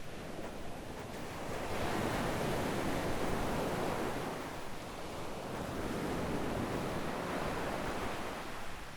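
Small waves breaking and washing up the sand, swelling about two seconds in and again around six seconds, with a light wind on the microphone.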